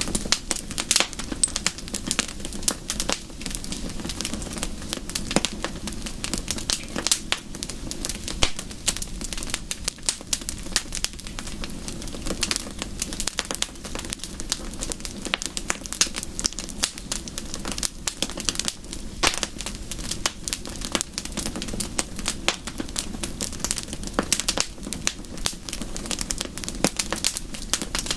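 Wood fire crackling, with many irregular sharp pops and snaps over a steady low rushing noise.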